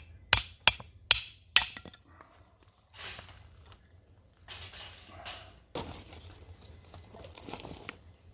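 Five sharp knocks in quick succession over the first two seconds, struck hard like a hammer or hatchet on wood, followed by stretches of rustling and scraping.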